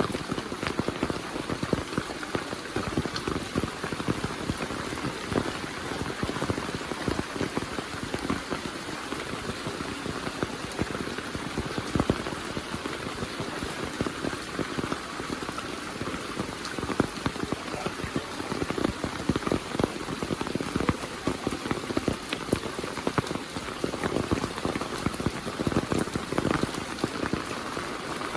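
Heavy monsoon rain falling, a dense, steady patter of countless drops.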